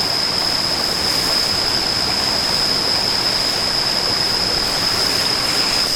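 Small creek's water running steadily, with a thin, steady high-pitched tone held over it throughout.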